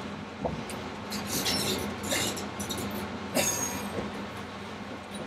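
Passenger train running, heard from inside the carriage: a steady rumble and low hum with scattered clicks and rattles.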